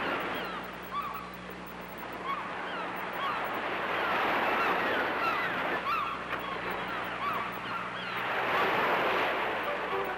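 Waves washing in, swelling twice, with many short honking bird calls over them, like a flock of geese or gulls, and a faint steady hum beneath.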